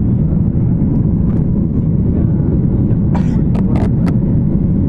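Steady low rumble of an airliner's engines and airflow, heard from inside the passenger cabin. A few short hisses come about three to four seconds in.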